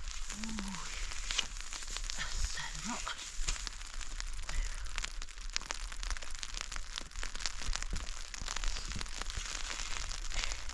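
Irregular crackling and clicking, with two short, low voice-like sounds about half a second and three seconds in.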